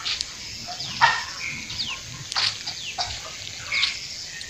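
Birds chirping, many short high calls gliding downward in pitch, with a few louder sharp sounds about a second, two and a half seconds and nearly four seconds in.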